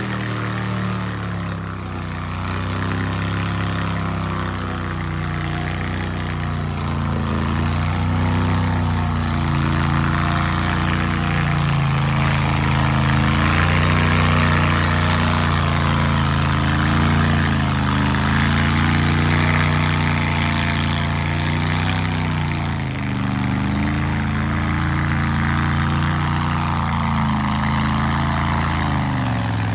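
Mega truck's big engine running hard under load in deep mud, its pitch rising and falling repeatedly as the throttle is worked, with a brief drop near the end.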